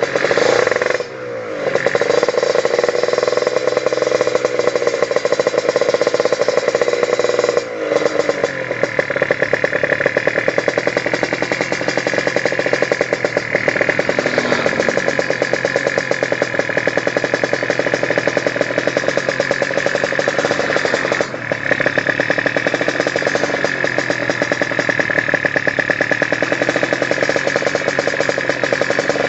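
Tuned Kawasaki Ninja motorcycle engine held at high revs, with the throttle briefly eased about a second in, again near 8 seconds and again near 21 seconds, then brought back up.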